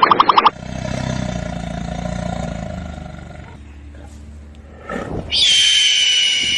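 A big cat's low growling roar, fading away over about three seconds. About five seconds in, a long, high screech starts, holding nearly one pitch and sliding slightly down; it is the loudest sound.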